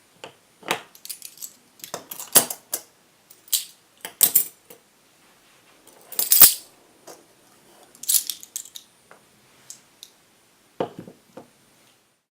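Irregular sharp clicks and clatters of small hard objects being handled, with the loudest knock about six seconds in.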